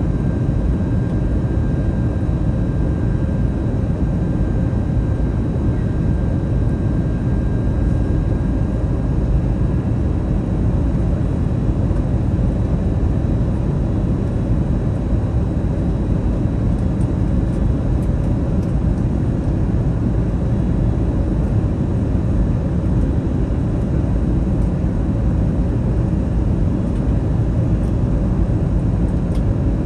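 Airbus A321neo cabin noise in flight on approach: a steady low rumble of airflow and engines heard from inside the cabin. A faint thin high tone fades out about a third of the way in.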